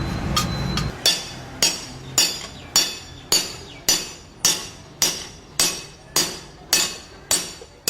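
A blacksmith's hammer strikes a khukuri blade being forged on the anvil in a steady rhythm, a little under two blows a second, and each blow leaves a short metallic ring. A low rumble with light taps fills the first second, then cuts off.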